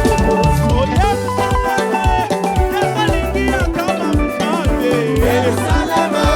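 Live gospel praise band playing an upbeat, African-styled groove with bass, drums and percussion, with singing or lead melody over it.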